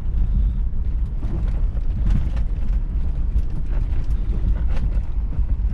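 Vehicle engine running with a steady low rumble while it drives over rough ground, with scattered knocks and rattles from the body.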